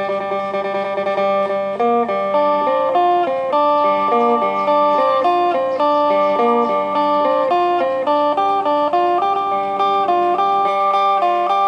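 Electric Isan phin played through an amplifier: a fast plucked melody over steady drone notes, with rapid tremolo picking at the start. The instrument is being sound-tested before it is shipped.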